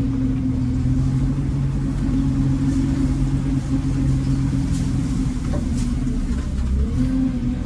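Farm vehicle engine running steadily with a low hum, its pitch shifting up about seven seconds in.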